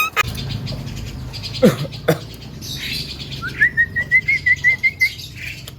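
Young Javan myna calling: a quick downward swoop about a second and a half in, a couple of clicks, then a rapid wavering trill from about three and a half seconds in.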